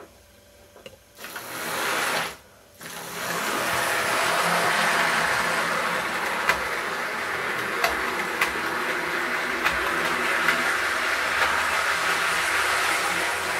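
Hornby OO gauge model train running on its track: small electric motor whirring and wheels running on the rails, with light clicks now and then. It starts with a short burst, drops out for a moment, then runs steadily from about three seconds in.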